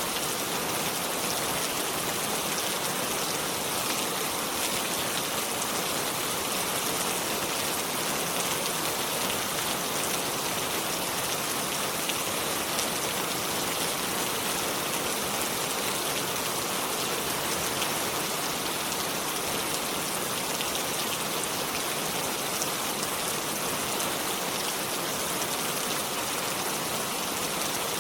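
Steady rain falling, an even hiss of many drops with fine patter throughout.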